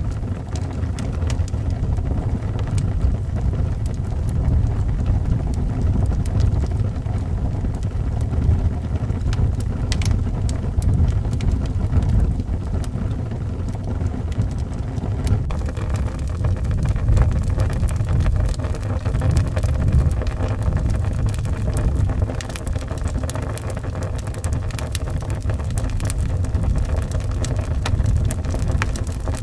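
Wind howling as a steady low rumble, with a log fire crackling and popping over it; the crackle grows denser about halfway through.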